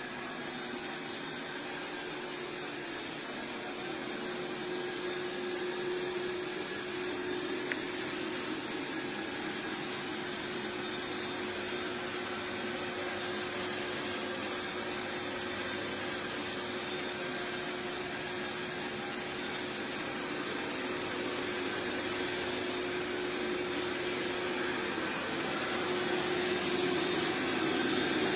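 iRobot Roomba Plus 405 Combo robot vacuum running: a steady motor and fan hum with one steady tone through it, getting gradually louder toward the end.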